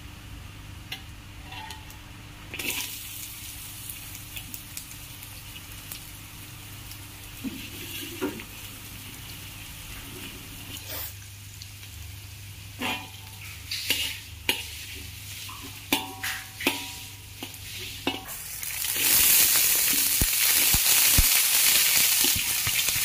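Chopped garlic and shallots sizzling gently in oil in a steel wok, with a perforated metal ladle scraping and clinking against the pan now and then. Near the end the sizzling turns much louder as shredded cabbage is stir-fried in the hot wok.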